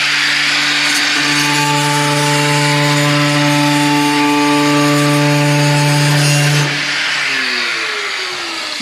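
Handheld electric power tool working the car's sheet-metal body, its motor holding a steady pitch under a rough grinding hiss. About seven seconds in it is switched off and winds down, its pitch falling.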